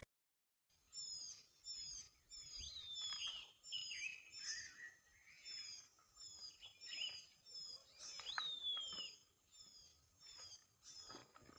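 Birds calling faintly: a short, high, falling chirp repeats about twice a second, with a few longer falling whistles from other birds mixed in.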